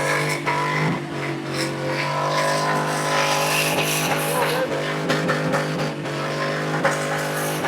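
Car engine held at steady high revs during a burnout, with the tyres spinning.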